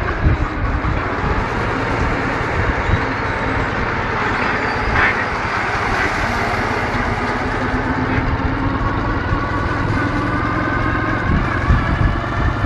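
Ural motorcycle's 650 cc flat-twin engine running steadily under way, its pitch climbing slightly over the last few seconds.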